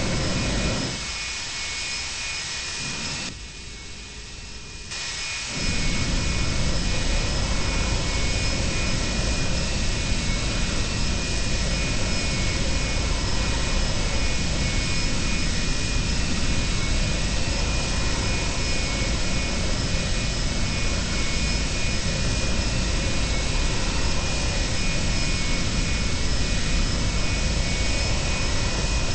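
Boeing 737-200's Pratt & Whitney JT8D turbofans heard from the passenger cabin: a steady jet roar with a thin high whine over it. It drops to a quieter level about a second in and comes back sharply to full level about six seconds in.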